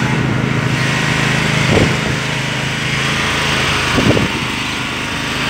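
An engine running steadily at one constant speed, a low droning hum, with two brief louder sounds about two seconds and four seconds in.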